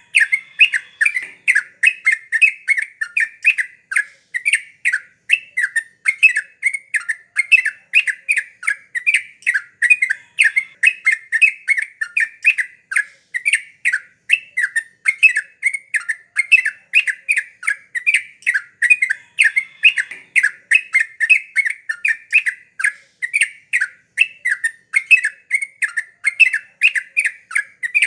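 Yellow-vented bulbul (trucukan) singing: a rapid, unbroken run of short, bubbly chattering notes, several a second, at a steady pace.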